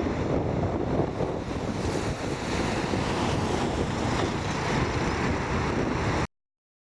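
Steady roar of a KC-10 Extender's three turbofan engines, with wind buffeting the microphone. The sound cuts off abruptly about six seconds in.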